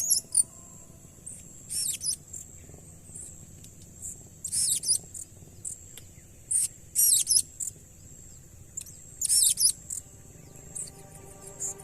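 Blue-crowned hanging parrots (serindit) giving short, shrill, very high-pitched call bursts, about every two to three seconds, over a faint steady high-pitched drone.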